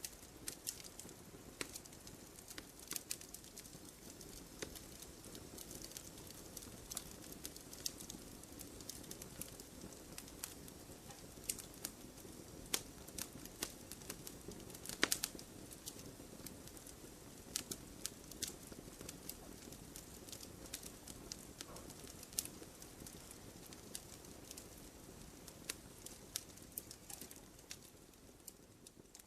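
Fire crackling in a fireplace: a steady low rush of flames with frequent irregular sharp pops and snaps, one louder crack about halfway through, fading slightly near the end.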